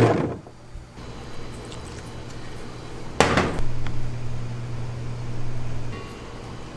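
A loud running machine cuts off at the start, leaving a low steady hum. About three seconds in comes a single sharp clack, like hard kitchenware or a door knocking.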